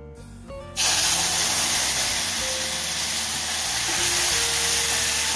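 Tomato and onion paste hitting hot oil: a sudden loud sizzle about a second in that keeps hissing steadily as it fries.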